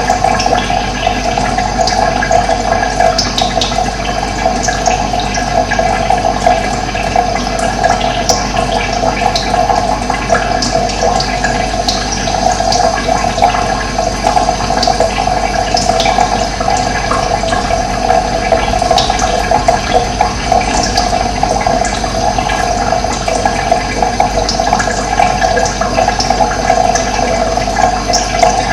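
Running water rushing steadily, with scattered short, high bird chirps over it.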